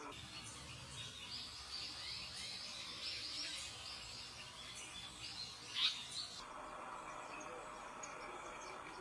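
Small birds chirping and twittering at a high pitch, with one sharper, louder note near the six-second mark. The chirping stops after about six and a half seconds, leaving a steady background drone.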